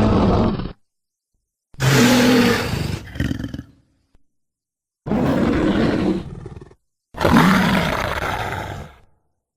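Designed Andrewsarchus creature roars: the end of one call just after the start, then three separate roars of about two seconds each with short silences between them, their pitch bending up and down.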